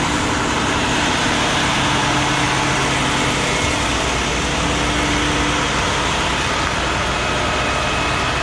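A motor vehicle's engine idling steadily: a constant drone with a few steady tones and no change in level.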